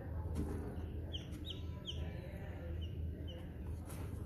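A bird giving short, high chirps, each dropping in pitch. Three come close together about a second in, then two fainter ones follow, over a steady low hum.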